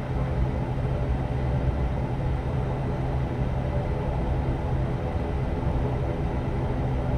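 An ATR turboprop airliner's engines and propellers humming steadily, heard inside the passenger cabin: an even drone with a low rumble beneath it.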